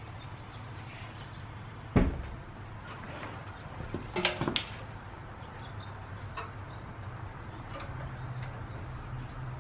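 Knocks and clicks from handling a small-engine pressure washer while getting it ready to start: one sharp knock about two seconds in, then a few lighter clicks, over a low steady hum.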